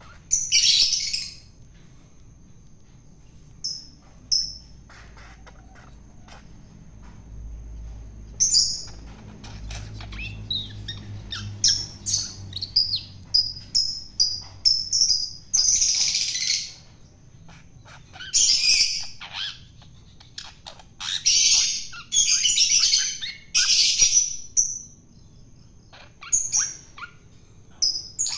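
Long-tailed shrike (cendet) giving harsh, rasping squawks about a second long, repeated several times, with a run of short sharp chirps at about two a second in between.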